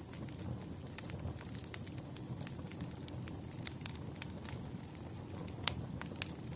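Wood fire crackling: a steady low rush of burning with irregular sharp snaps and pops, one louder pop just before the end.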